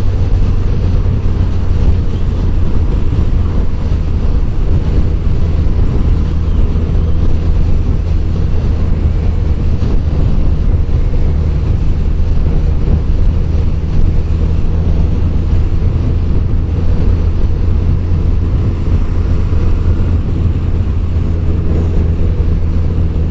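Motorcycle engine running steadily at cruising speed, with steady wind rush over the microphone from the moving bike.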